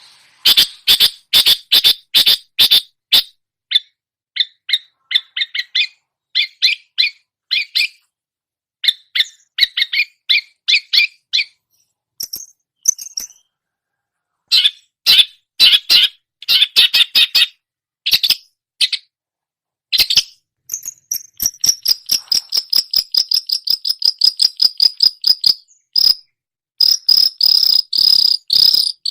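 Long-tailed shrike (cendet) singing a mimicking song: bursts of rapid, sharp chattering notes with short pauses between them, and past the middle a long fast run of evenly spaced high notes.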